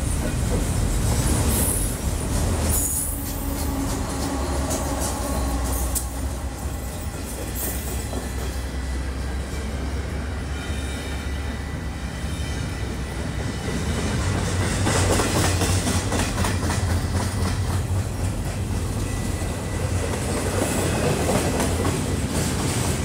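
Long double-stack intermodal freight train rolling past close by: a steady rumble of wheels on rail with clicking over the joints and a faint wheel squeal in the middle. It swells louder as a mid-train diesel locomotive goes by, about two-thirds of the way through.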